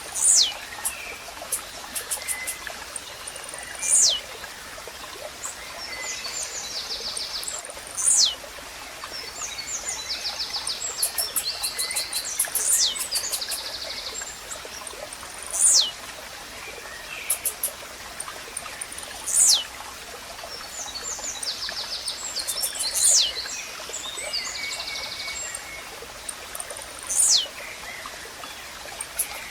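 Blue-black grassquit (tizil) repeating a short, sharply falling call about every four seconds, seven times, over a steadily trickling stream. Softer trills and chirps from other small birds come in between the calls.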